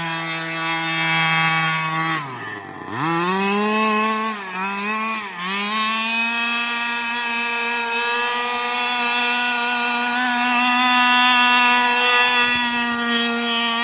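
The 30cc two-stroke gas engine of a 1/5 scale Redcat Rampage XR Rally RC car with a JetPro pipe, running at high revs. About two seconds in the throttle comes off and the pitch falls sharply, then it revs back up, dips briefly twice, and holds high revs steadily.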